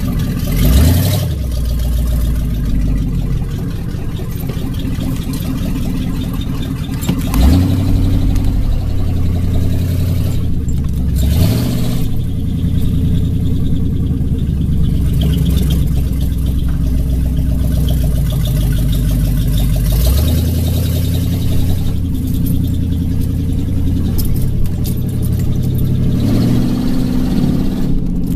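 Chevrolet K5 Blazer engine running loud and steady between repeated revs, rising in pitch near the start, about seven seconds in and about eleven seconds in, then settling back.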